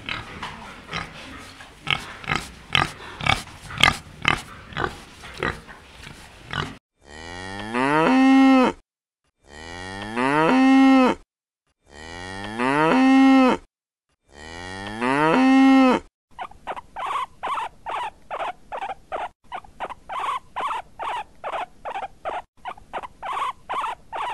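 Warthogs grunting rapidly, then a cow mooing four times, each long moo rising in pitch and then held. Near the end, guinea pigs squeak in quick, regular pulses.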